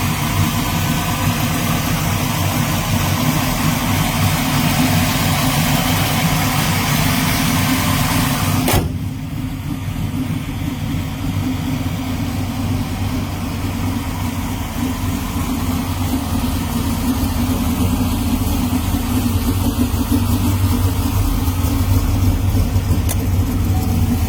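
Ford Windsor V8, a 351 block stroked to 410 cubic inches, running at idle. About nine seconds in the sound changes abruptly, losing most of its hiss while the low engine note carries on.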